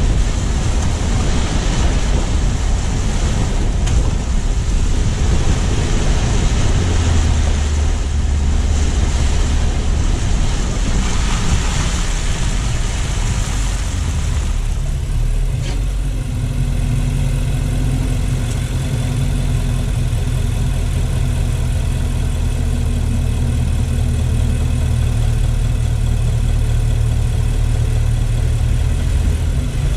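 Car driving with a dense rush of tyre and wind noise, which falls away about halfway through as the car comes to a stop, leaving the engine idling with a steady low hum.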